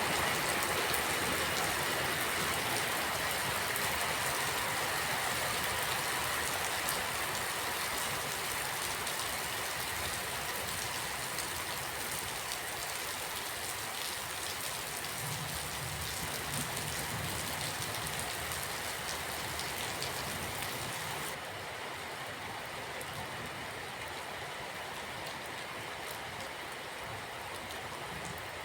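Steady rain falling, a dense even hiss that slowly grows quieter; about three-quarters of the way through, the high part of the hiss drops away suddenly.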